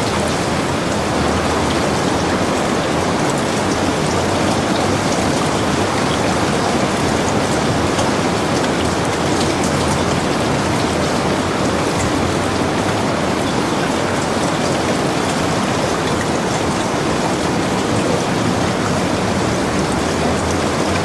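Heavy rain falling steadily, an even hiss with scattered sharp drop ticks.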